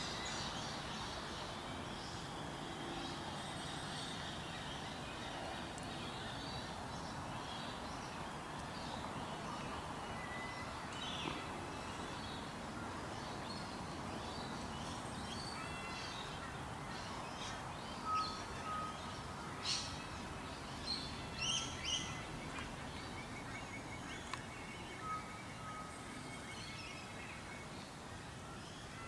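Steady outdoor background noise with small birds chirping. A quick run of short, high chirps comes about two-thirds of the way through.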